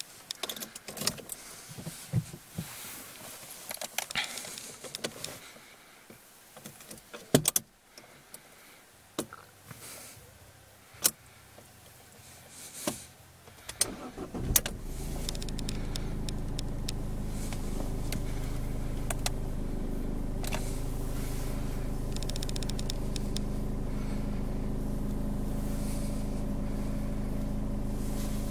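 A run of clicks and knocks, then about halfway through the Ford Fiesta's 1.4 TDCi DV4 four-cylinder diesel starts and settles into a steady idle near 900 rpm, started cold at about −1 °C.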